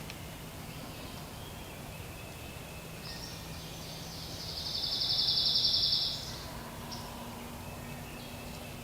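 A small songbird's high, rapid trill, starting about three seconds in and lasting about three seconds, loudest near its end, over a steady woodland background hiss.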